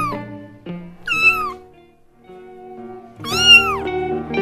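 Kitten meowing: two high-pitched meows, about a second in and again near the end, the second one louder, over background guitar music.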